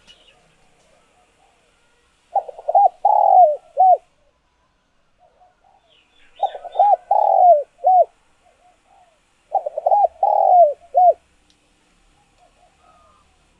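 Spotted dove cooing: three phrases of several short, rising-and-falling notes each, a few seconds apart. This is a tame decoy dove's call, the kind used to draw wild doves in.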